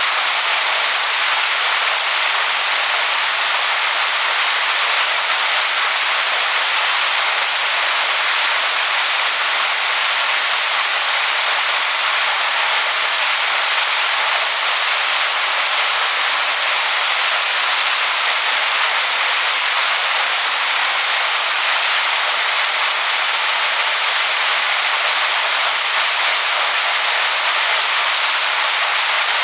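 Waterfall pouring onto rocks: a steady, even rush of falling water, bright and hissy.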